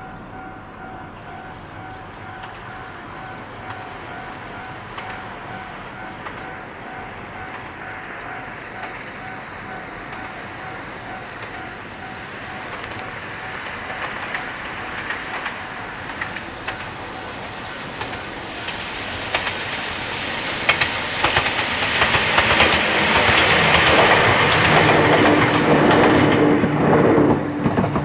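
Ohmi Railway 800-series electric train approaching and passing. Its rumble builds slowly to a loud pass with rapid clickety-clack of the wheels over rail joints, dropping away just before the end. Through the first part a level-crossing bell dings steadily and faintly.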